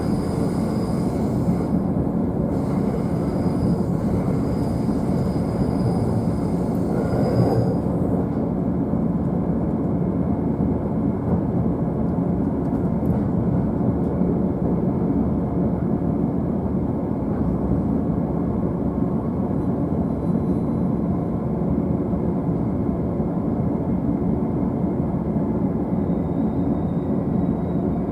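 JR East E531 series electric train running, heard from the upper deck of a double-deck car: a steady rumble of wheels and running gear. A faint high whine comes and goes during the first eight seconds or so, then stops.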